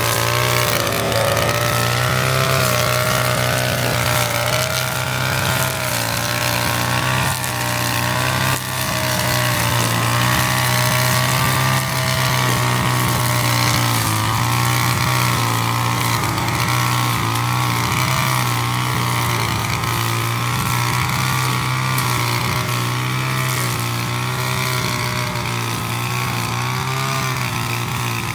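25cc two-stroke brush cutter engine running steadily at working speed while mowing grass, its pitch wavering slightly up and down.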